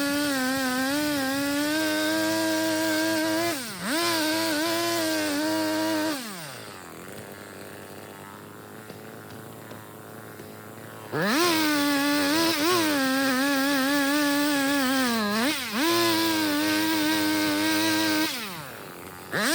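Gas chainsaw running at high revs, its pitch wavering and sagging briefly. It drops back to idle for about five seconds in the middle, then revs up again, and dips once more near the end before revving back up.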